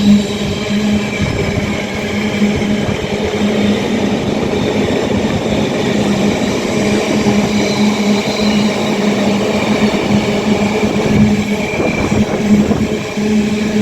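Freight train passing through, its wagons rumbling over the rails, with a steady droning hum.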